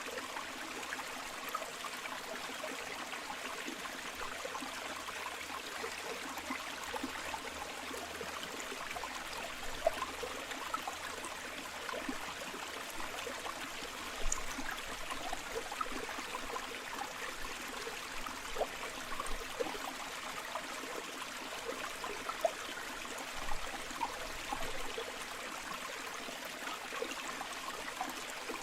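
A shallow stream flowing steadily over rocks, with a continuous rush and frequent small gurgles and splashes, a few of them louder.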